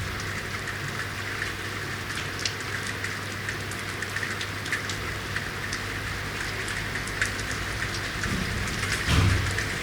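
Steady rain falling on a city street, with scattered sharp drips and splashes over an even hiss. Near the end a low rumble swells briefly and is the loudest sound.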